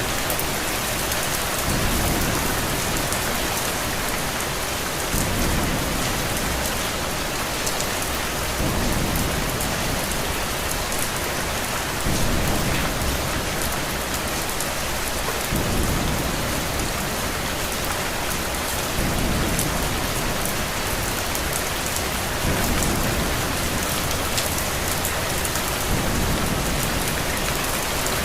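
Steady rain falling, with a low rumble that swells up about every three and a half seconds.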